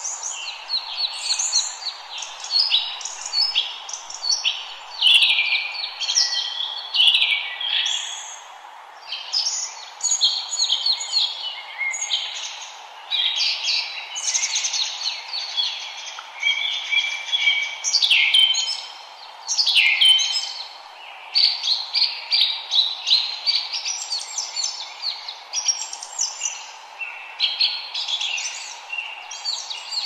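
A chorus of forest birds singing continuously, with many overlapping chirps, short phrases and trills. Underneath runs a faint steady hiss.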